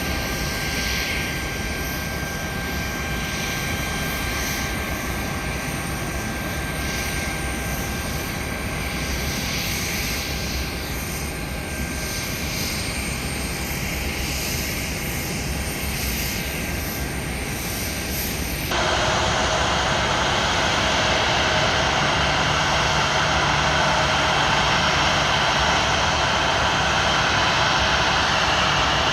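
Aircraft engines running: a steady rush with a few steady whining tones, which changes abruptly about two-thirds of the way through to a louder, hissier rush.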